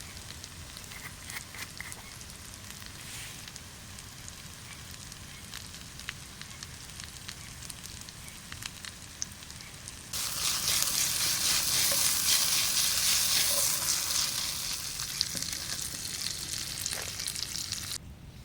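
Campfire crackling with scattered sharp pops over a low hiss. About ten seconds in, a much louder steady sizzling hiss starts suddenly and cuts off just before the end.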